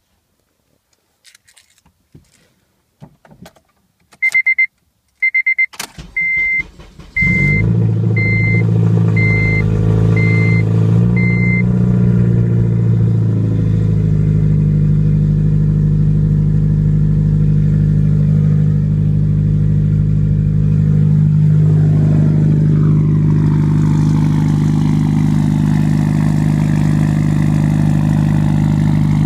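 Honda Civic Si cold start after sitting three months: a few clicks and a dashboard chime beeping about once a second, then the starter cranks briefly and the engine catches about seven seconds in. It settles into a steady cold fast idle, which drops a little about 22 seconds in as the engine warms.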